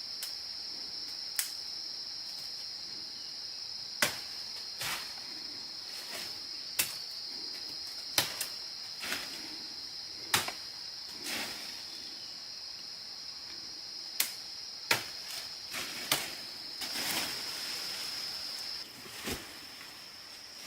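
A steady, high insect chorus of crickets or cicadas, which thins out shortly before the end. Over it come about fifteen sharp, irregular knocks, like tools striking wood or other hard objects.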